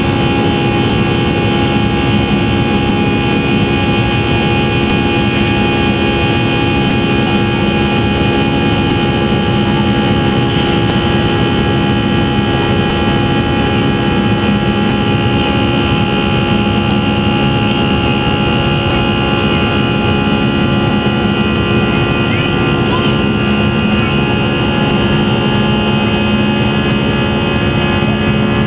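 Steady drone inside an Airbus airliner's cabin in flight: jet engine noise and rushing air with several steady hum-like tones, a low tone growing a little stronger in the second half.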